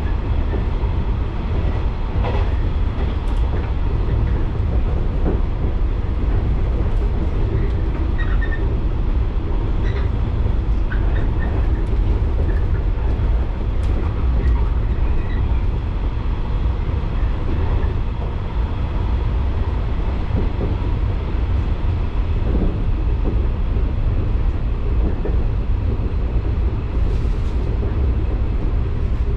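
Electric local train running steadily along the line, a constant low rumble of wheels on rail and running gear heard from inside the rear cab, with a few faint clicks.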